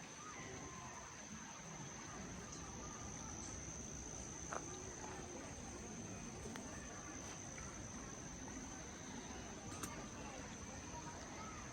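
An insect's continuous high-pitched trill, steady throughout, over faint background hiss with a few soft chirps and small clicks.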